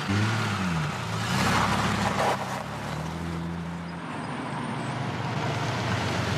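Porsche 911's air-cooled flat-six engine running as the car climbs a winding road. Its pitch rises and falls in the first second, then settles into a steadier drone as it approaches.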